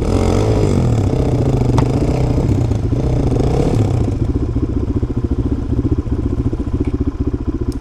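Single-cylinder four-stroke dual-sport motorcycle engine under way on a dirt trail, its revs rising and falling several times through the first few seconds, then running at a steadier throttle with an even pulsing beat.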